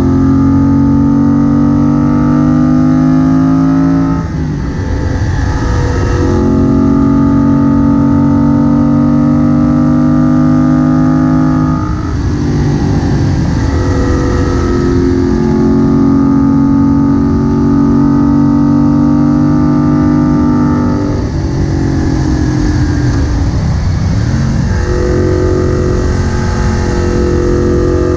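Moto Guzzi Bellagio's air-cooled 940 cc transverse V-twin heard from onboard, pulling steadily under throttle. The engine note breaks off briefly three times, about four, twelve and twenty-one seconds in, then settles into a steady pull again.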